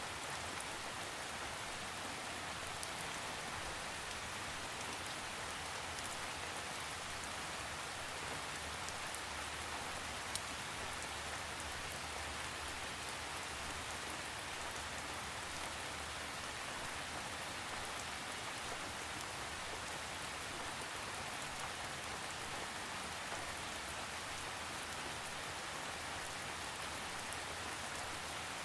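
Steady rain falling on a surface, with individual drops ticking now and then over an even hiss; no thunder.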